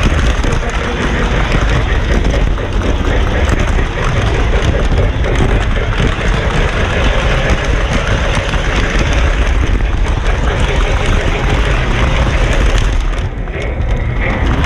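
Model train running around its track: a steady, dense rumble that dips briefly near the end.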